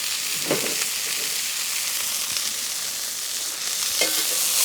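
Steak sizzling in a hot oiled pan over a strong campfire: a steady, even hiss.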